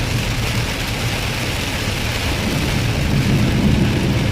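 Heavy rain on a moving vehicle, heard from inside the cabin, over a steady low rumble of road and engine noise.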